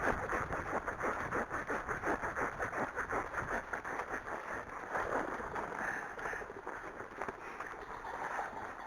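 Rain pattering close to the microphone, a dense, irregular run of small taps that grows fainter toward the end.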